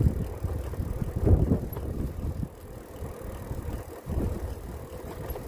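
Wind buffeting the microphone as a bicycle rolls along, with a low rumble that swells and fades in gusts and a faint steady hum.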